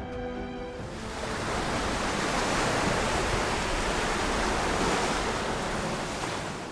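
Background music fading out in the first second, then the rush of sea surf that swells up and slowly dies away.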